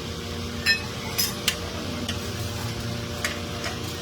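Metal-on-metal clinks as tools or engine parts are handled: three sharp clinks in the first second and a half, then a few fainter ones, over a steady low hum.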